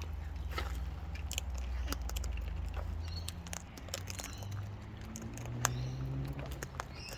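Birds pecking and crunching seed: irregular sharp taps and clicks over a low steady hum.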